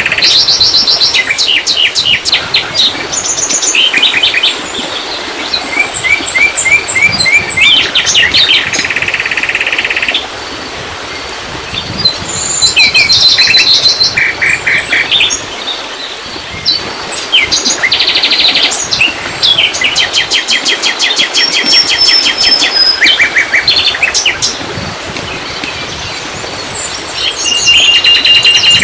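Several songbirds singing at once: overlapping varied phrases of quick chirps, rapid trills and repeated notes, over a steady hiss.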